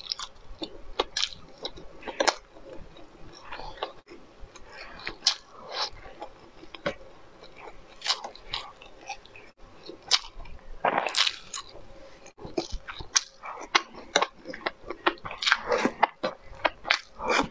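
Close-miked mouth sounds of a person eating imitation crab sticks in sauce: irregular wet chewing and lip-smacking clicks. Near the end comes a denser run of sucking and smacking as sauce-coated enoki mushrooms are slurped in.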